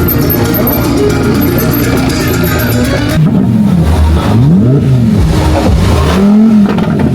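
Background music, then about three seconds in it gives way to a car engine revving up and down in several repeated blips.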